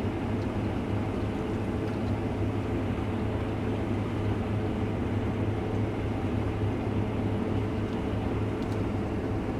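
Case IH combine running steadily under load while harvesting wheat, its engine and threshing machinery making a constant low hum, heard from inside the cab.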